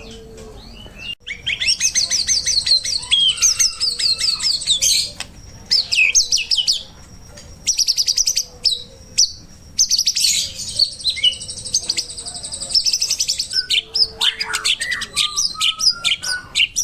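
White-rumped shama (murai batu) singing a loud, varied song of fast trills and rapid runs of high notes, in several bursts with brief pauses between them.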